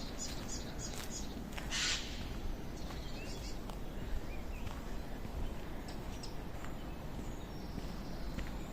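Forest birdsong: a bird repeats short high chirps in the first second, with a few scattered faint calls later, over a steady low background noise. A brief hiss about two seconds in is the loudest moment.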